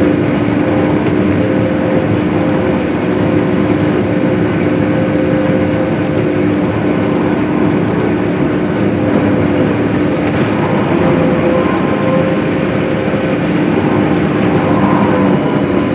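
Case IH hay swather running steadily while cutting hay: a continuous engine drone with a steady hum.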